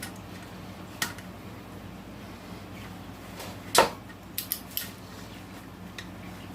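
Sharp metallic clicks and clinks from a socket wrench being worked on engine bolts: a single click about a second in, a louder clack near the middle, then a quick run of three or four clicks.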